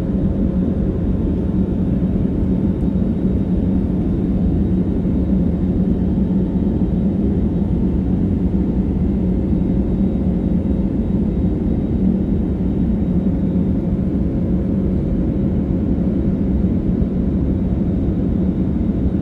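Steady low rumble of a passenger jet airliner, with a faint steady hum riding on it.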